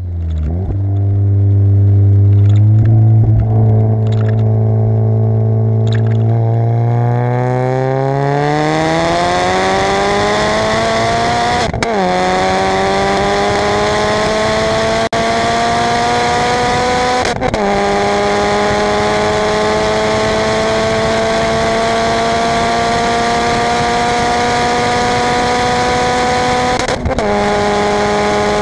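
Tuned Renault Mégane RS 265's turbocharged 2.0-litre four-cylinder, heard from inside the cabin under full-throttle acceleration. Its note climbs steadily through the revs, with three upshifts where the pitch drops briefly. Wind and road noise build as the speed climbs.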